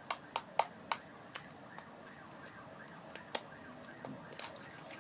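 Homemade slime squeezed and stretched by hand, making sharp pops and clicks as trapped air bubbles burst: several quick pops in the first second, then a few more spread out.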